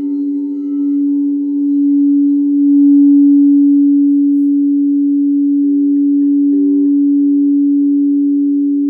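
Singing bowls being played, two sustained ringing tones sounding together with a slight wavering. They grow louder over the first three seconds, then hold steady.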